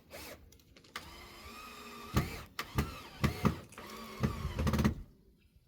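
Cordless drill driving a screw into pallet wood: the motor whines for about four seconds with its pitch dipping under load, with several loud knocks along the way.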